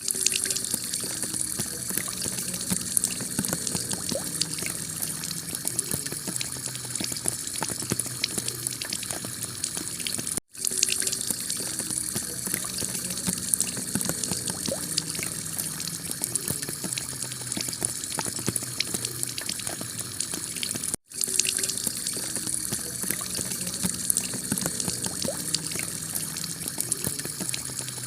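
Heavy rain falling on a tiled roof: a steady hiss with many small drop impacts. The sound cuts out for an instant twice, about ten seconds apart, where a short recording is looped.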